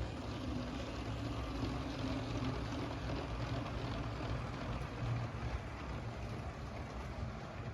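LEGO train running on plastic track: a steady motor hum with wheels rumbling and rattling over the rails.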